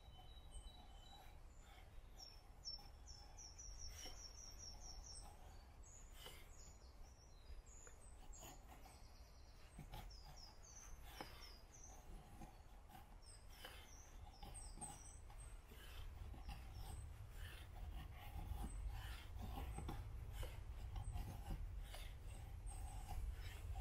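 Faint birdsong: short series of quick falling chirps, a few seconds in and again around the middle, over a low rumble. Scattered soft clicks and scrapes grow more frequent in the second half.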